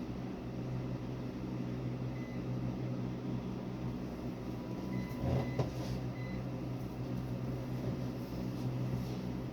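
Steady electrical hum from a running motor or appliance, with a short knock and a few faint short beeps about five to six seconds in.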